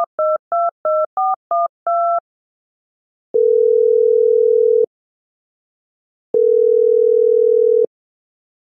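Telephone keypad tones: eight quick two-note beeps as a number is dialled. Then the ringback tone of the call ringing out, two long steady beeps each about a second and a half long with pauses between.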